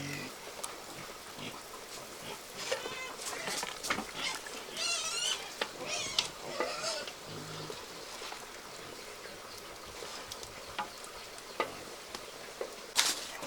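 Food sizzling in a frying pan with the scrape and click of a utensil stirring it. A wavering, quavering animal call sounds a few times around the middle.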